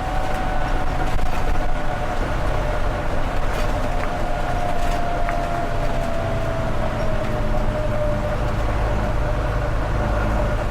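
Volvo B9TL double-decker bus's diesel engine running, with a steady turbocharger whistle over a low engine rumble. The whistle slowly falls in pitch.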